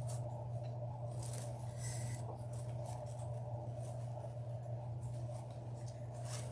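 Hands handling and fluffing deco mesh and ribbon loops on a wreath: a few brief, soft crinkly rustles over a steady low hum.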